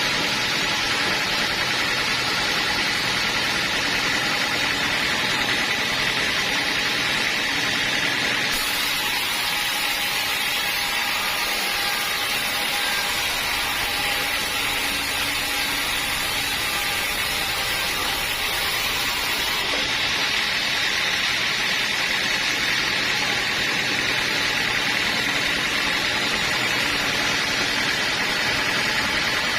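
Sawmill machinery running steadily: a loud, even mechanical noise with a faint high whine. From about 8 s to 20 s in, it turns hissier and brighter.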